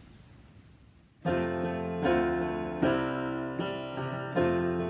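Piano starts about a second in, playing a hymn introduction in chords struck about every 0.8 seconds, each one fading before the next.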